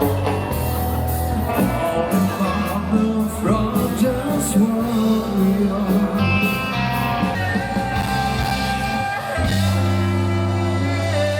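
Rock band playing live, with a singer holding sung lines over electric guitar and a heavy bass line.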